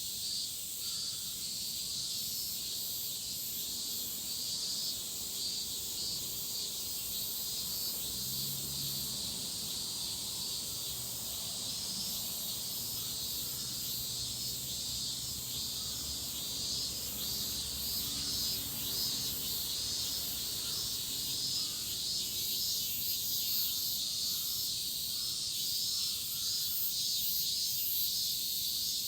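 Chorus of cicadas shrilling steadily, a dense high-pitched buzz with a fast pulsing texture.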